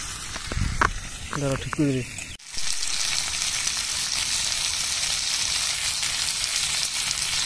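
Pork and potato pieces frying in a black kadai over a wood fire: a steady sizzle, with a metal spatula stirring in the pan. After a short break about two and a half seconds in, the sizzle comes back louder and stays steady.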